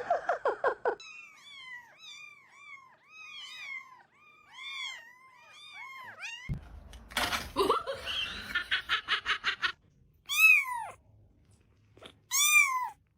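Kitten meowing over and over in short, high-pitched calls that rise and fall, faint at first and much louder near the end. A stretch of rapid stuttering pulses comes just after the start and again midway.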